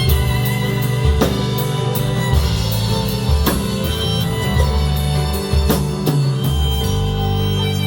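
A live band playing an instrumental passage of a pop-rock song: drum kit, bass and guitar, with a sharp drum hit about once a second over sustained bass notes.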